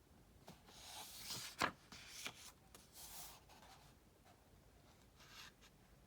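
Paper rustling as a book page is handled and turned, with a sharp tap about a second and a half in and a lighter one shortly after, then further brief rustles.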